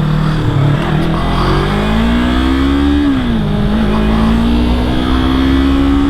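Yamaha R3 parallel-twin sport motorcycle accelerating: engine pitch rises, drops sharply about three seconds in as it shifts up a gear, then climbs slowly again.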